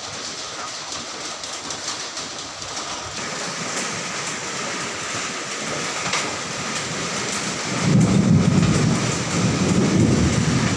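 Hail and heavy rain pelting down, an even rushing noise dotted with many sharp ticks of hailstones striking. About eight seconds in, a deeper rumbling layer swells in and the whole sound grows louder.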